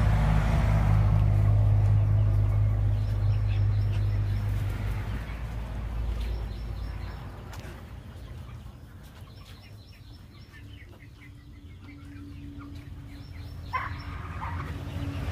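A motor vehicle's engine drone fades out over the first half, leaving faint chicken clucks and chirps, with one short, louder hen call near the end.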